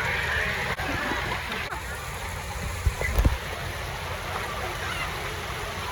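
Water park ambience: splashing, running water with a background of voices, and a few low thumps about three seconds in.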